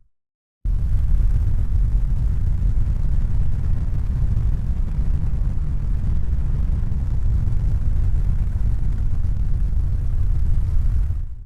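Steady deep rumbling noise, even and without rhythm. It starts abruptly after a short moment of silence and fades out at the end.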